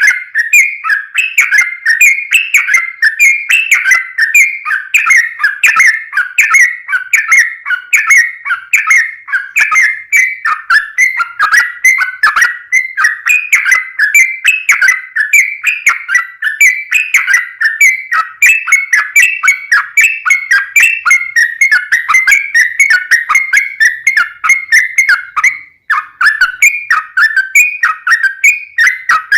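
Yellow-vented bulbul (trucukan) singing a long, unbroken run of quick chirping notes, the 'ropel panjang' song played to lure other bulbuls into answering; it breaks off briefly near the end before resuming.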